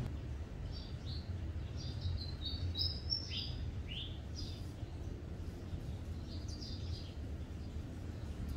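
Small birds chirping: short high chirps in scattered clusters, busiest two to four seconds in and again around seven seconds, some of them quick downward notes, over a low steady rumble.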